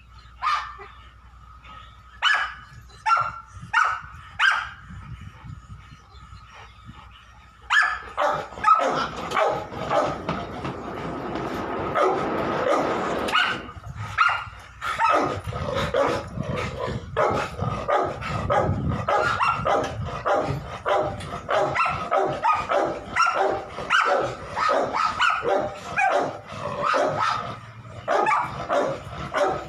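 Dogs barking: a few separate barks in the first five seconds, then from about eight seconds in, dense, continuous barking.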